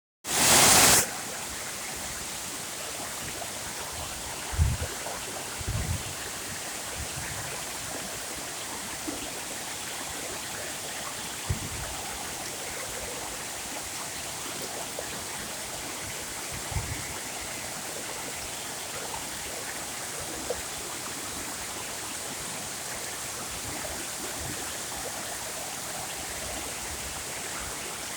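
Waterfall: steady rushing, splashing water. A very loud burst of noise in the first second, and a few short low bumps later on.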